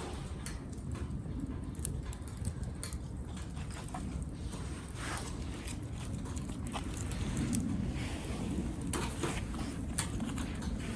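Small wood fire burning in a compact grill stove: irregular sharp crackles and pops over a low steady rumble.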